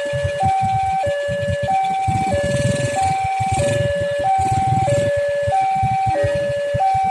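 Railway level-crossing warning alarm sounding a two-tone hi-lo signal, a higher and a lower tone alternating, each held a little over half a second, over a low rumble.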